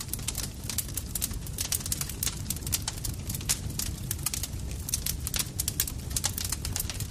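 Campfire crackling: a dense, irregular run of sharp pops and snaps over a steady low rumble of burning wood.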